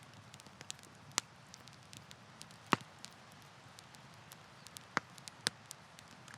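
Wood campfire crackling: a steady low rush of burning with irregular small snaps and a few louder pops, the sharpest a little under three seconds in.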